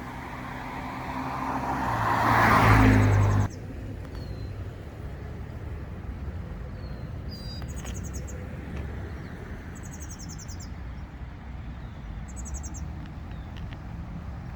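A car passes close by, its noise swelling to a peak and then cutting off suddenly about three and a half seconds in. After that, small birds chirp and short high trills repeat every couple of seconds over a low, steady rumble of distant traffic.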